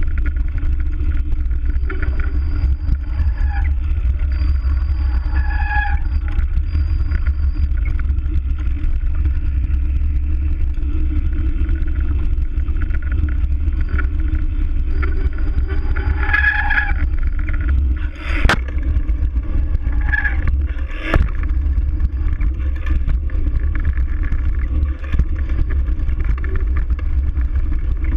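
Steady low rumble of wind and riding noise on a bike-mounted GoPro microphone while cycling, with two sharp knocks about eighteen and twenty-one seconds in.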